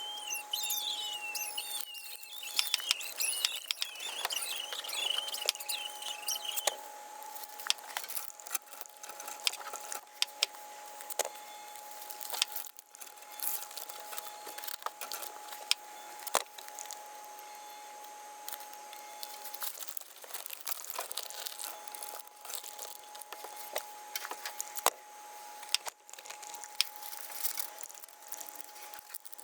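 Aluminium foil tape being pulled off its roll and pressed and smoothed over sheet-metal seams: irregular crinkling and crackling clicks, with a wavering squeal as the tape unrolls during the first seven seconds or so. A faint steady tone hums underneath.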